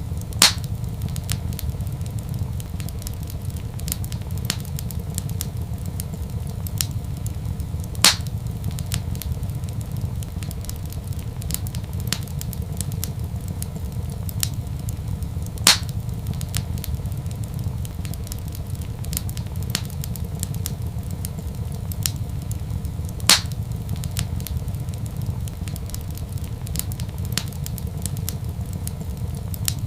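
Wood fire in a fireplace crackling over a steady low rumble of flame, with frequent small crackles and a louder pop about every seven to eight seconds.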